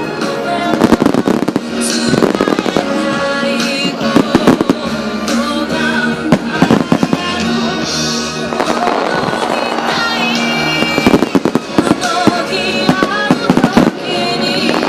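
Fireworks display: aerial shells and ground fountains firing, with many sharp bangs, some single and some in rapid clusters, over loud music.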